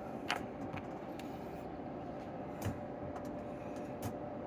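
A few light clicks of small carburetor parts being handled and set down during disassembly, three in all, over a steady room hum.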